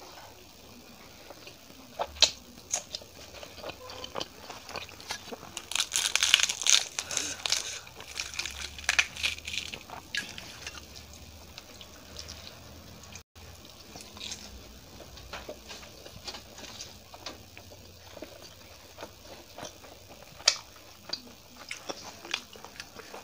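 Close-miked eating of rice and shahi paneer curry by hand: chewing with crunches and wet mouth clicks, busiest about six to ten seconds in.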